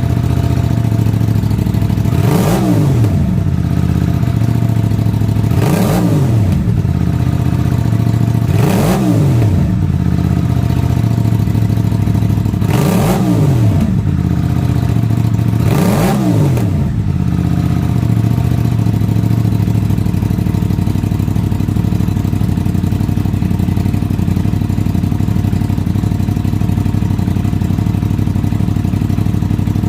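Aprilia 660 parallel-twin engine through an unrestricted Motobox race exhaust, blipped sharply from idle five times, each rev rising and dropping straight back. It then settles into a steady idle for the second half.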